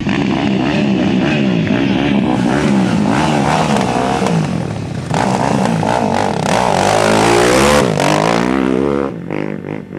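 Off-road race motorcycle engines revving, their pitch rising and falling over and over. The sound changes abruptly about five seconds in and falls away near the end.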